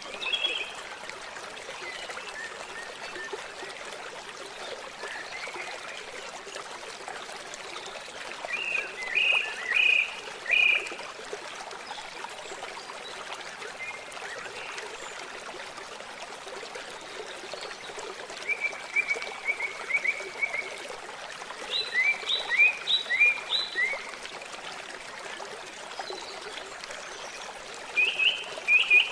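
Steady trickling of water, with four short series of quick repeated animal calls over it: about 9 seconds in, about 19 seconds in, about 22 seconds in and near the end.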